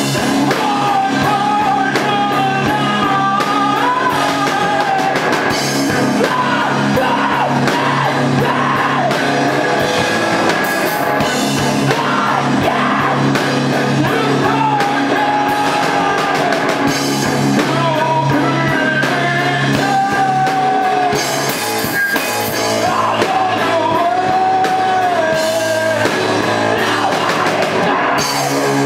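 Live rock band playing loudly with distorted electric guitar, drum kit and a singer, the vocals partly yelled, with the echo of a room.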